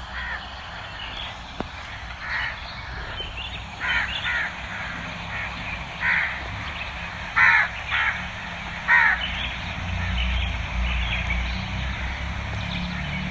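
Harsh bird calls, about seven of them spread over several seconds and loudest about seven and a half and nine seconds in, over a steady background hiss and low rumble.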